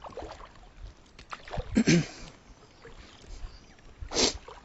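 Water sloshing and splashing around a fishing kayak, with two short louder splashes, about two seconds in and again near the end.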